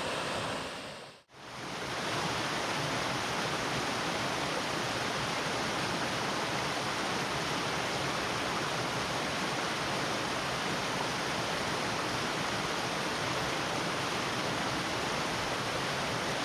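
Steady rush of water from a small waterfall on a mountain stream. It dips out briefly about a second in, then comes back and holds steady.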